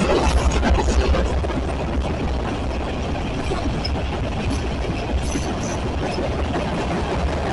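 CSX train passing, a steady low rumble with an even spread of rail noise above it.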